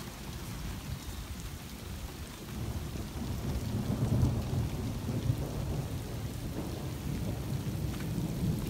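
Steady rain falling in a downpour, with a low rumble underneath that swells a few seconds in.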